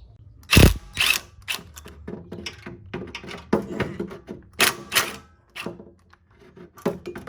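Metal hand tools clanking and knocking in an irregular run of sharp clicks against the engine's exhaust studs, with one heavy knock about half a second in.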